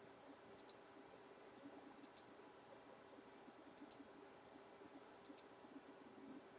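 Faint, sharp clicks in quick pairs, four pairs about a second and a half apart, over near silence.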